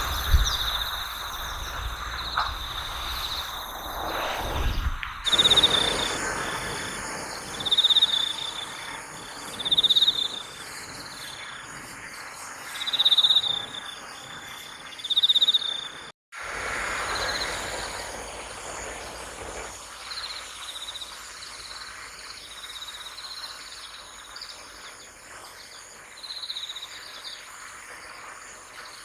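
Crickets chirping in a field: short, high-pitched trills repeating every two to three seconds over a steady chorus of other insects.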